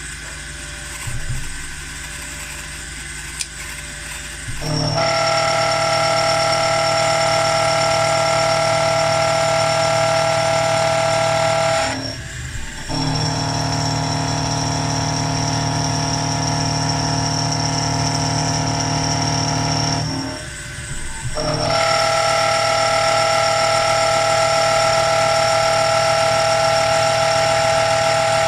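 A CNC milling machine running with a loud, steady whine of several pitches, which starts about five seconds in and breaks off briefly twice. Before it starts there are a few faint mechanical clicks.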